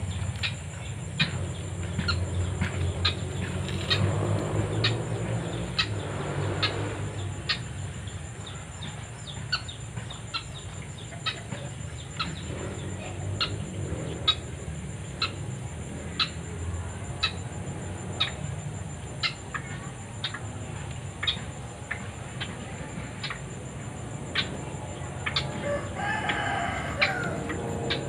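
Fowl clucking over a steady high-pitched insect drone, with sharp clicks scattered throughout.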